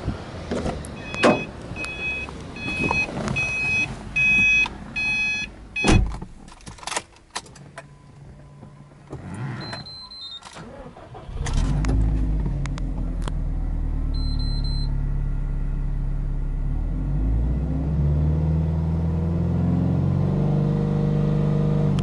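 Subaru Impreza R205's turbocharged flat-four boxer engine being started. First come door and switch clicks and a run of dashboard warning beeps and chimes, then a brief starter crank. The engine catches about eleven seconds in and settles into a steady fast idle, the revs climbing a little near the end.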